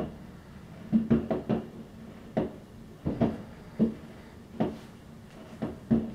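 Fireworks going off: a run of irregular sharp bangs, about ten, some in quick pairs and clusters, each with a short low ringing tail.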